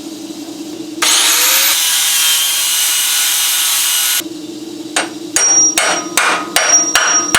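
Power grinder spinning up and cutting into a steel frame bracket for about three seconds, then stopping. Then a quick series of hammer blows on the steel piece, each ringing with a bright metallic tone, to knock it loose.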